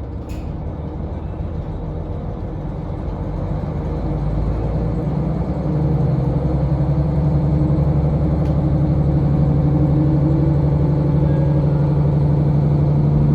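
Diesel railcar engine running, its low drone growing louder about four to six seconds in and then holding loud and steady.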